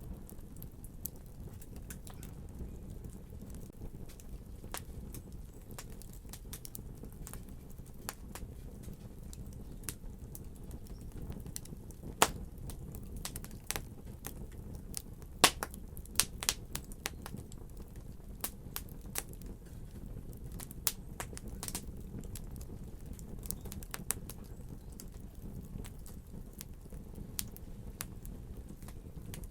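Wood fire crackling: a steady low rumble with irregular sharp pops and snaps, which come thickest and loudest about halfway through.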